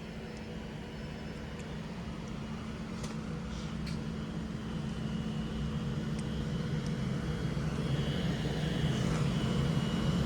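Class 390 Pendolino electric train approaching slowly, its steady hum growing louder, with a high whine joining about halfway.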